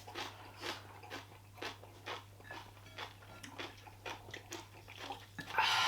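A person chewing food close to the microphone during a mukbang, with soft moist clicks about twice a second. A louder breathy sound comes near the end.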